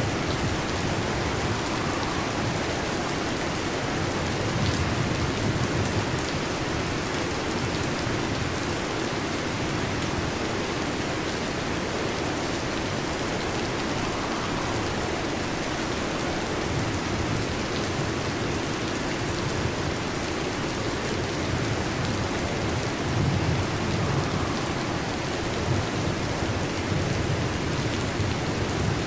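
Heavy rain falling steadily on a metal roof, a dense even hiss. Low thunder rumbles swell a few times, around five seconds in and again near the end.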